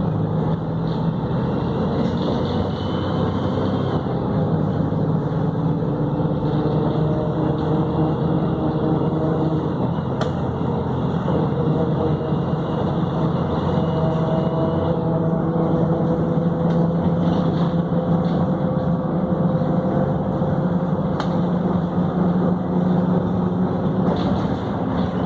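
Volvo B7RLE bus's six-cylinder diesel engine running steadily under way through its Voith automatic gearbox. The engine note drifts slowly up and down with speed, with a faint higher whine at times.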